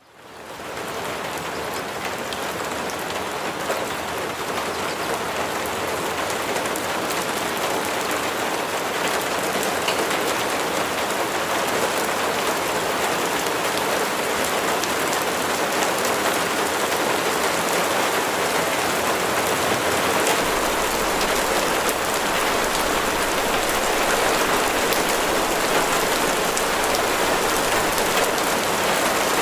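Steady rain falling, an even hiss with scattered ticks of single drops, fading in over the first second.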